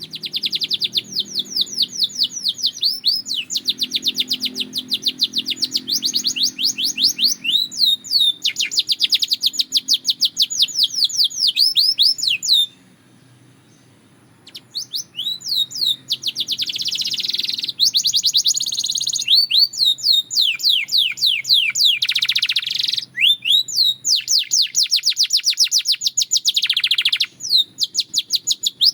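Belgian canary singing in long, rapid trills of repeated notes, with a pause of about two seconds midway.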